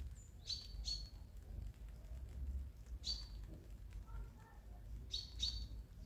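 Small songbird chirping: short, sharp high calls, a pair near the start, one about three seconds in and another pair near the end, with fainter lower calls in between, over a low steady rumble.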